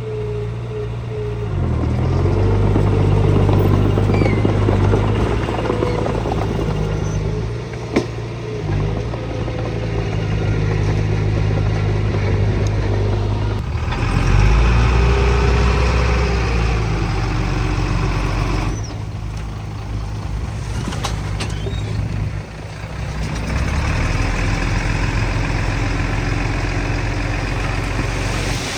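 Diesel engines of earthmoving machines, a small bulldozer and dump trucks, running steadily. The engine note changes abruptly a few times, with a sharp click once about a third of the way in.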